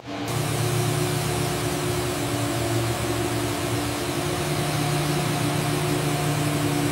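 A machine running steadily: an even hiss with a low hum, starting abruptly.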